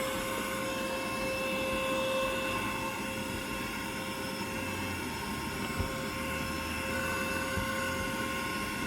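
Vacuum cleaner running steadily with a high, even motor whine, with a brief knock about six seconds in.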